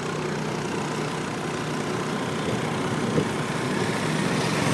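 Motorcycle engine running steadily, heard from on the bike during a ride.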